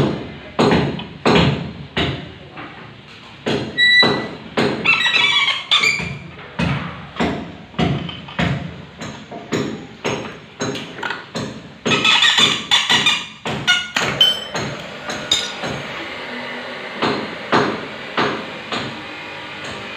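Repeated hammer blows, one to two a second, steady through the stretch, with short bursts of higher ringing in between.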